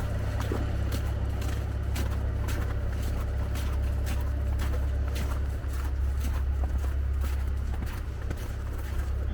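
Walking footsteps on wet, slushy ground, about two steps a second, over a steady low rumble of wind on the microphone.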